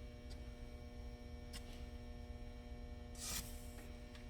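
Steady low electrical hum with a couple of faint clicks, and a brief hiss about three seconds in.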